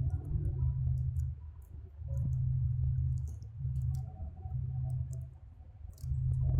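Light clicks and taps of small parts being handled during a battery replacement on a RØDE Wireless GO II transmitter, over a low hum that cuts in and out several times.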